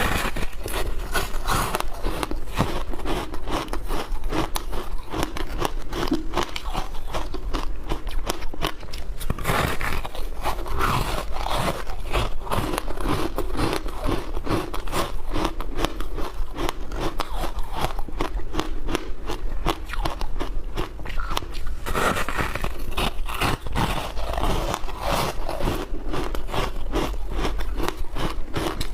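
Close-up crunching and chewing of shaved ice: a dense, unbroken run of small crackling crunches.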